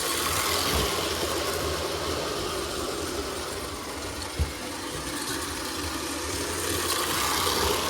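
Postwar Lionel 1666 toy steam locomotive running along tinplate O-gauge track, its electric motor and gearing whirring steadily over a low hum. It runs a little squeaky, possibly needing more oil, with one short knock about halfway through.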